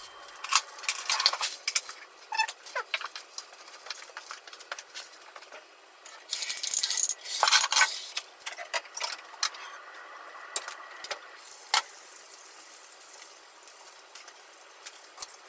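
Plastic cling wrap crinkling and crackling as it is gathered and twisted around ramekins of egg mixture, with a longer, louder stretch of crinkling about six to eight seconds in. Light clicks and taps of ceramic ramekins on the countertop come in between.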